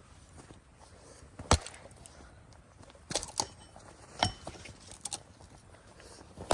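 A handful of sharp, irregularly spaced knocks, the loudest about one and a half seconds in and a quick cluster near three seconds.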